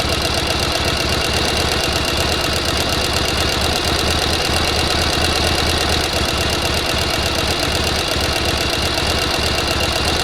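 Electric sewing machine running steadily at speed, its needle stitching with a rapid, even chatter.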